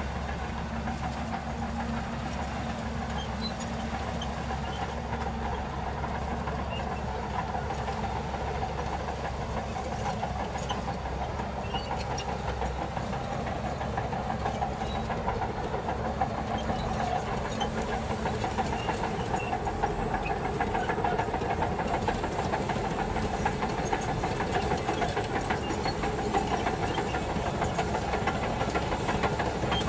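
Shantui DH17C2 bulldozer engine running under load while pushing soil, with light clicks from the tracks; it grows somewhat louder from about halfway.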